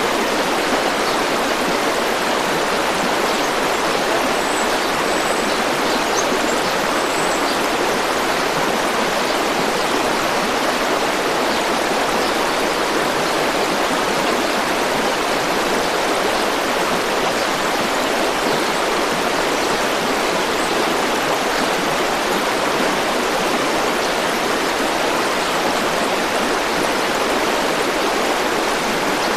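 River or stream water flowing steadily, a constant even rush of running water.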